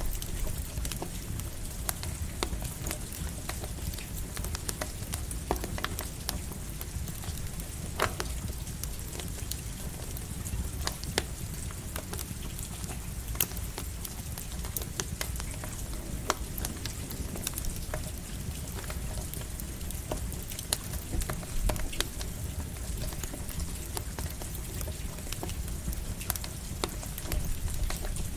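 Campfire crackling with irregular sharp pops over a steady hiss of light rain.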